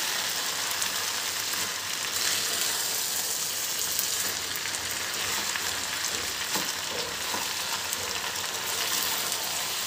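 Sauced spaghetti with chicken and vegetables sizzling steadily as it fries in a nonstick wok, tossed with metal tongs, with a few faint clicks.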